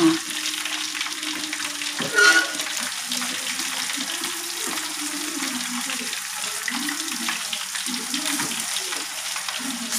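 Broccoli stir-frying in a nonstick wok: steady sizzling as a silicone spatula stirs and turns it in the pan, with a brief louder pitched sound about two seconds in.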